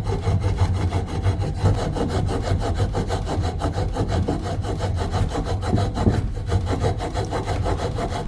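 Rapid, steady back-and-forth rasping strokes of a hand tool working material, as in sawing, filing or sanding.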